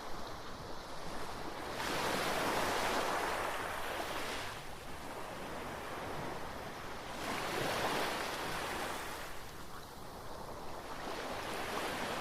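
Ocean surf breaking on a sandy beach, the wash swelling up and dying away in slow surges, twice clearly, with another building near the end.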